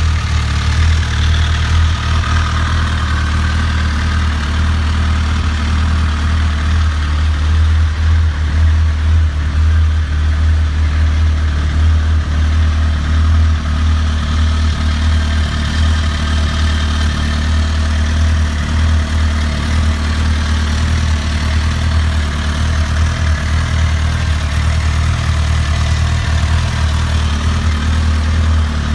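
2007 Suzuki GSX-R1000's inline-four engine idling steadily through its exhaust.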